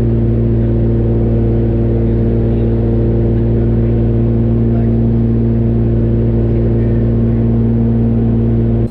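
Cabin drone of a Cessna 414A's twin piston engines and propellers in cruise: a loud, steady hum with several steady low tones. It cuts off abruptly at the end.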